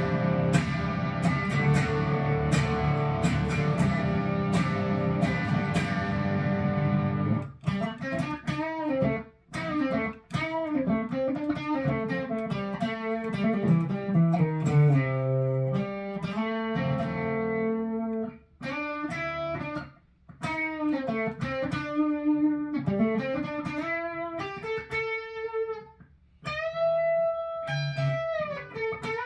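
Electric guitar, a Firefly Les Paul-style guitar, played through a Marshall Origin 20 amp with no pedal: about seven seconds of sustained strummed chords, then single-note lead phrases with string bends and vibrato, broken by short pauses.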